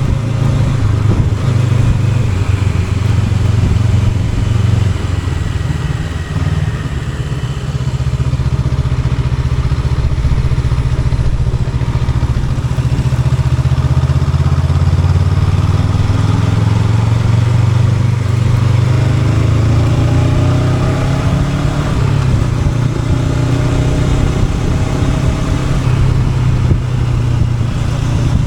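Honda NX500's 471 cc parallel-twin engine running while riding, under a steady rush of noise. The engine eases off briefly about a quarter of the way in, then its pitch climbs as it accelerates about two-thirds of the way through.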